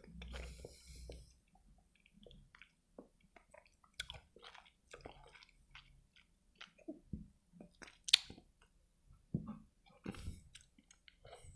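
Quiet, close-miked chewing of a mouthful of noodles: soft wet mouth clicks and lip smacks, with one sharp smack a little past the middle.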